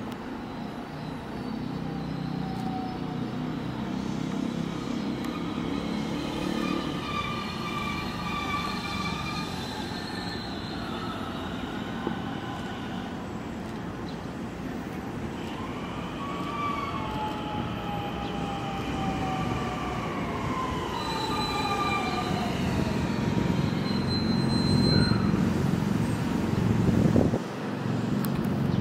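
A JR West electric local train running slowly past on the crossover from the outer to the inner track: a low rumble of wheels on rail with high whining and squealing tones that slide up and down in pitch. The rumble grows louder toward the end.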